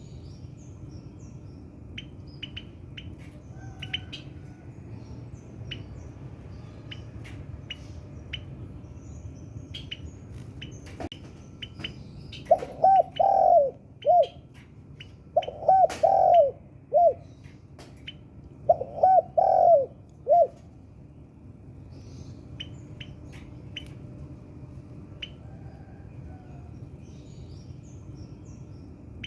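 Spotted dove (tekukur) cooing: three phrases around the middle, each a run of several low notes, the phrases a few seconds apart. Faint short high chirps of small birds come and go throughout over a steady low background noise.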